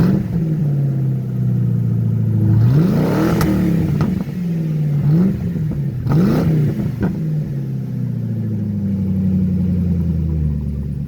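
1968 truck's engine running through a true dual exhaust with the mufflers removed and the catalytic converters still in: it is revved in several quick throttle blips, then settles back to a steady idle with a rumble.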